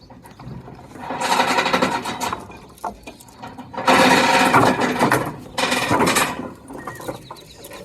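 Three bursts of rapid mechanical rattling, the longest about a second and a half.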